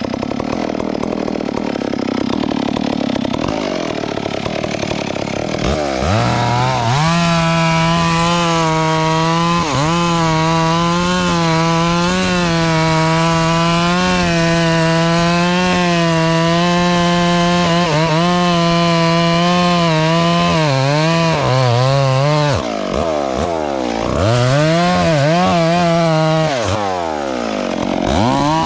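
Two-stroke chainsaw that revs up about six seconds in and runs at high speed, its pitch dipping slightly now and then as it cuts wood. Later the throttle is let off and opened again, and the pitch sweeps down and up a few times.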